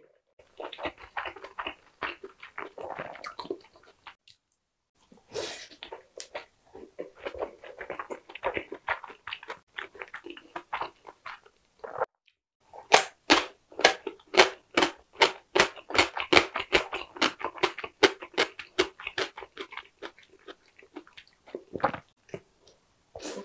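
Chewing a steamed meat dumpling in the mouth, then crisp, evenly paced crunching of a slice of yellow pickled radish (danmuji), about three crunches a second, that dies away near the end.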